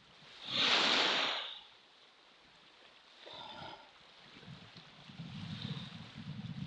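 Ocean surf: a wave rushes in loudly about a second in, then softer wash, with wind buffeting the microphone as a choppy low rumble through the second half.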